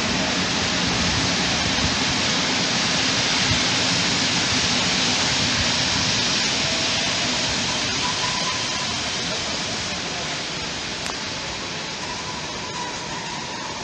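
Passenger train rolling past close by, a steady rushing noise of wheels on rail that slowly fades, with a faint high wheel squeal coming in near the end.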